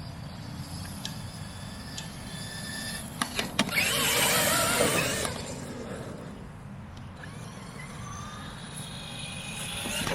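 Traxxas X-Maxx 8S RC monster truck's brushless electric motor whining up and back down in pitch as the truck speeds up and slows, loudest about four seconds in, with a few sharp clicks just before. The whine starts rising again at the end.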